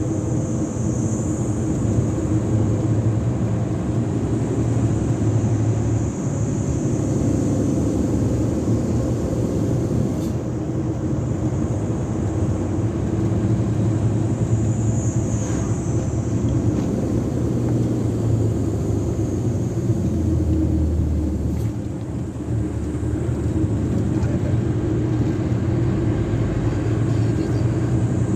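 Isuzu Giga semi-trailer tractor's diesel engine running under way, a steady low drone that dips briefly about 22 seconds in.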